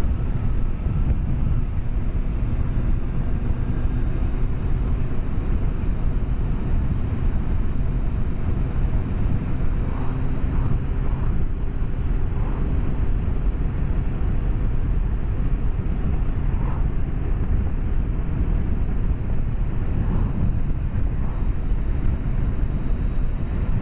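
BMW K1200S motorcycle's inline four-cylinder engine running steadily while under way, heard through a microphone inside the rider's helmet with a heavy, even rush of wind and road noise.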